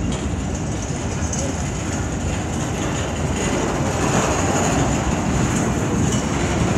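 Freight train of empty intermodal well cars rolling past: steady wheel-on-rail noise, with a steady high hiss over it.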